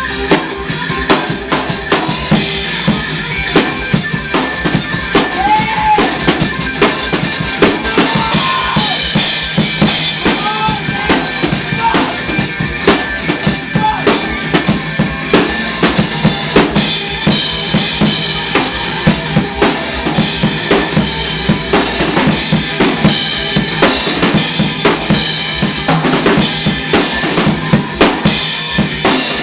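Rock drum kit played fast and steadily, with bass drum and snare hits, over rock music.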